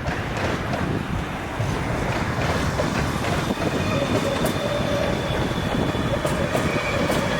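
X52 Regina electric multiple unit running on the track: steady rail noise that grows louder about a second and a half in, with a thin high whine from about halfway and a few sharp clicks of wheels over rail joints near the end.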